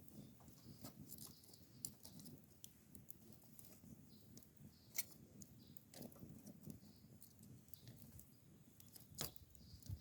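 Wood campfire crackling faintly: irregular sharp snaps and pops, with louder pops about five seconds in and again near the end, over a faint low rumble.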